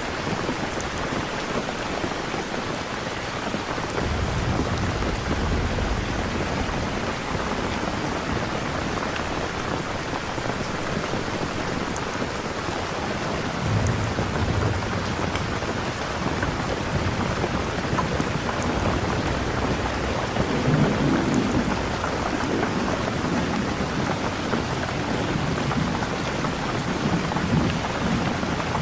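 Steady heavy rain with low rolls of thunder rumbling several times, about four seconds in, around the middle and again near the end.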